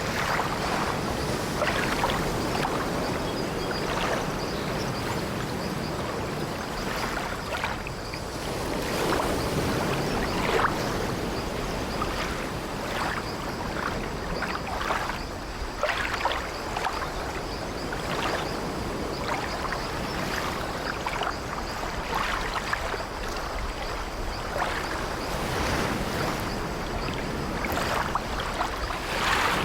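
Sea waves washing steadily, with short irregular creaks of an old wooden ship's timbers and deck.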